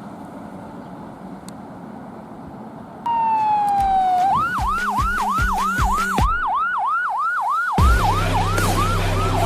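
A fire engine's electronic siren, on a 2018 E-One Typhoon pumper, cuts in after about three seconds with a falling wail, then switches to a fast yelp of about three and a half sweeps a second. From about eight seconds in, a loud low blast of the truck's air horn sounds under the siren, with engine noise beneath.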